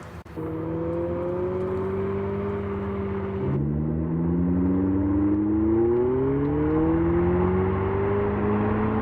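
Abarth 500e's sound generator playing a synthetic petrol-engine note as the car drives: the note holds fairly steady, drops suddenly about three and a half seconds in as at a gear change, then climbs steadily as the car speeds up.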